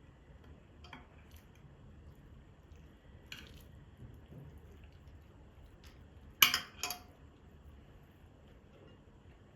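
Kitchen utensils and dishes being handled: a few light knocks and clinks, with two sharper clinks in quick succession about six and a half seconds in.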